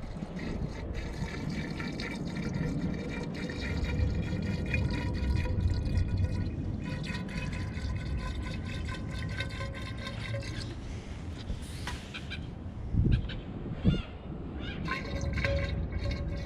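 Coolant being poured from a container into a barge engine's cooling system, a steady pouring of liquid. Two short knocks come near the end.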